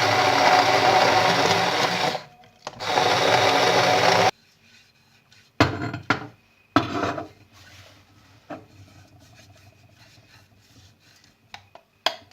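Electric blender motor running at a steady pitch. It stops briefly about two seconds in, runs again, then cuts off suddenly about four seconds in. A few sharp knocks and clatters follow, as the container and lid are handled.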